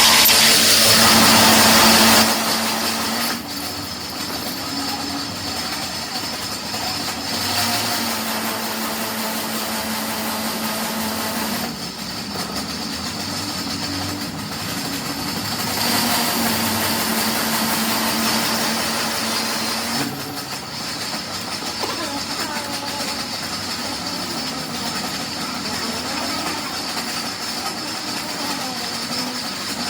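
Road traffic: heavy vehicles running and passing, loudest in the first two seconds, with a steady low engine hum that comes and goes three times.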